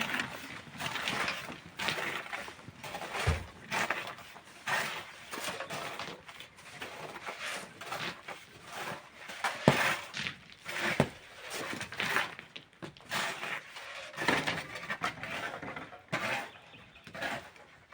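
Hand tools working sand and stone: a steady run of irregular scraping, grating bursts, with a few short sharp knocks now and then.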